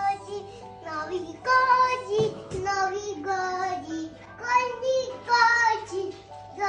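A child's high voice singing a song, with music.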